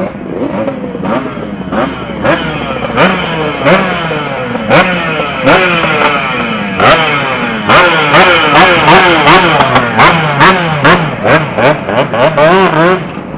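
Two-stroke motorcycle engines revved in repeated throttle blips, the pitch climbing and dropping over and over, with sharp cracks among them; the blips come faster and louder in the second half.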